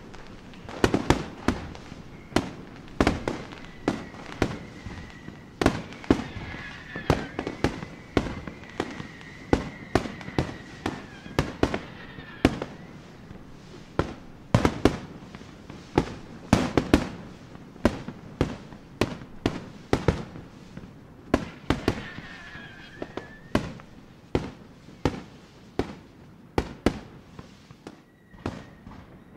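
Fireworks display going off: an irregular rapid run of sharp bangs and crackles, several a second. A thin whistling tone rises over the bangs for several seconds in the first half and again briefly later.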